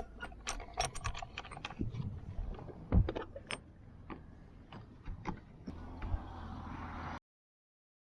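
Irregular metallic clicking and rattling, with a heavy thump about three seconds in; the sound cuts off abruptly to dead silence about seven seconds in.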